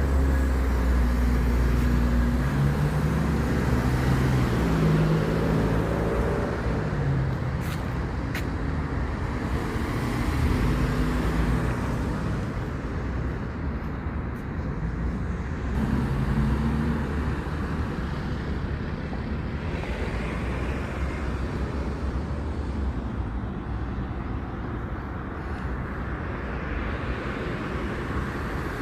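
Road vehicle noise: a steady low rumble, with an engine hum that comes and goes.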